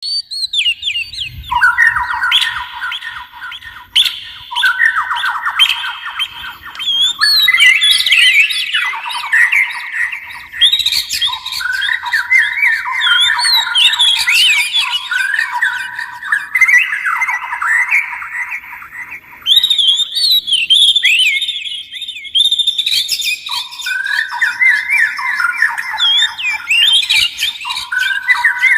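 Oriental magpie-robin and white-rumped shama singing: loud, almost unbroken song made of quick, repeated whistled notes and rapidly changing phrases.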